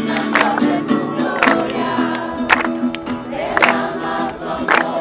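A group singing a worship song together over music, with a sharp beat about once a second.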